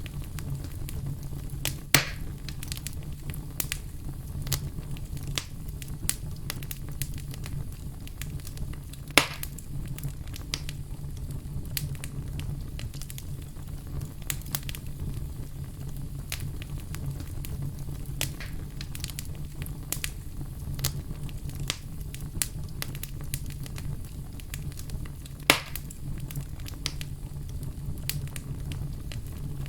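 Fire crackling over a steady low rumble, with constant small crackles and three louder pops: about two seconds in, about nine seconds in, and near the end.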